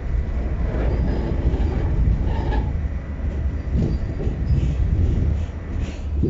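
New York City subway car in motion: a steady low rumble of the wheels running on the rails, with a few faint, brief wheel squeals.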